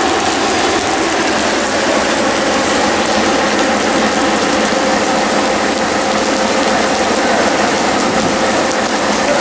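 Steady running noise of a moving passenger train heard from inside the car: a continuous rattle and rumble of wheels on the rails and the car's fittings, with a faint steady hum underneath.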